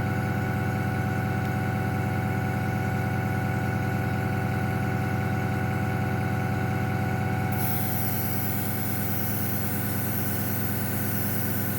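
Airbrush compressor running with a steady hum. About two-thirds of the way in, the hiss of air and paint spraying from the airbrush starts and keeps going.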